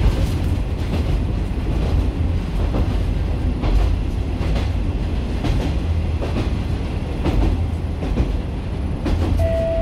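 Inside a diesel railcar running at speed: a steady low rumble of engine and wheels, with a wheel click over the rail joints about once a second. A steady high tone starts just before the end.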